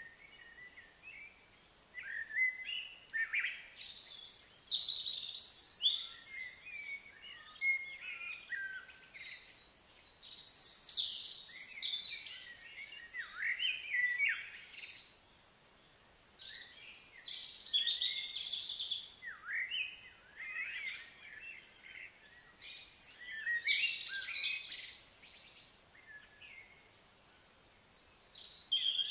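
Wild birds chirping and singing in overlapping bursts of short, high calls, with a couple of brief lulls.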